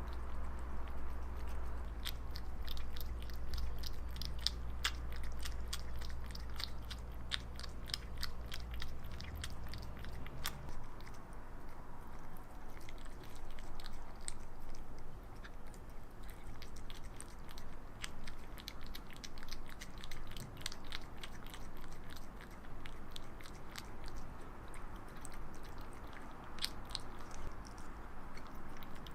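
Close-up mouth sounds of a Ragdoll cat: runs of quick, small wet clicks, several a second, in bouts with short pauses between them. A low steady hum sits underneath for the first third and then drops away.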